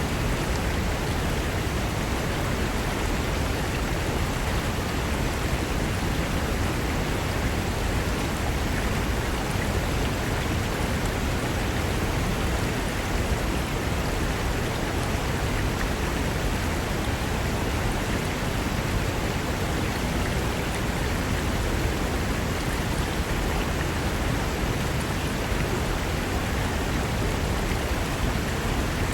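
Mountain river rushing over rocks: a steady, full rush of water that does not change.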